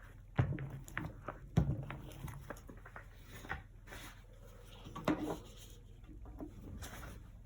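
Acrylic painting tools and materials being handled: a few light knocks and taps with small ticks between, the sharpest about half a second and a second and a half in, another about five seconds in.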